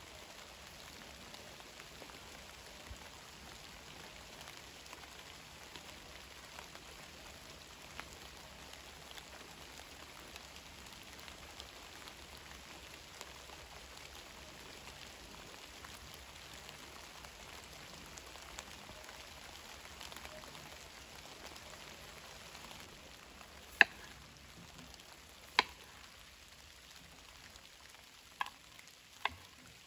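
Steady rain falling, an even hiss with faint ticks. In the last six seconds a knife slices a potato against a wooden cutting board, giving four sharp knocks, the first two the loudest.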